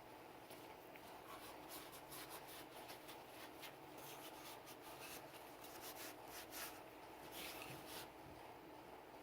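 Faint scratchy rubbing and scrubbing strokes of cleaning work on a Sig Sauer P320 pistol. The strokes come in quick irregular runs, busiest in the middle of the stretch, over a faint steady room hum.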